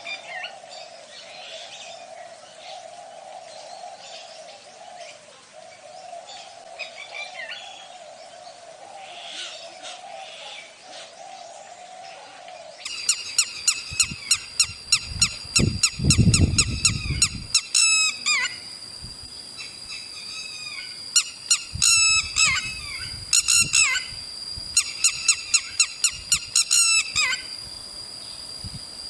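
Small birds chirping and calling, faint at first over a steady low hum. About thirteen seconds in the sound changes abruptly to a louder run of rapid, sharp chirps over a steady high tone, with a brief low rumble soon after.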